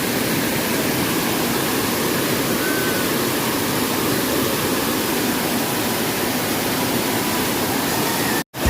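Waterfall: a steady rush of falling water, which cuts out abruptly for a moment near the end.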